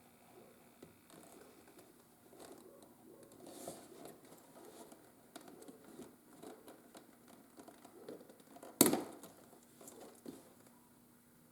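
Leather and small hand tools being handled on a workbench: scattered soft rustles and light taps, with one sharp knock about nine seconds in.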